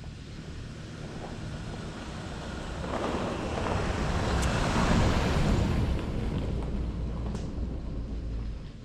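Vehicle engine running with a steady low hum while driving slowly, joined by a rushing noise that swells from about three seconds in, peaks midway and fades near the end.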